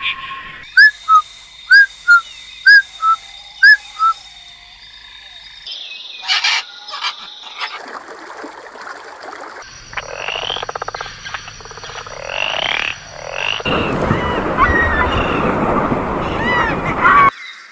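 Frogs calling, in several short recordings one after another: first a run of about eight sharp, evenly spaced calls, then other call types, and a dense chorus of many overlapping calls that stops abruptly near the end.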